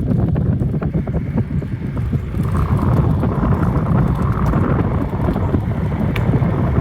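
Wind buffeting a phone's microphone while riding a bicycle, a steady loud low rumble with faint scattered clicks; a fainter higher hiss joins about two and a half seconds in.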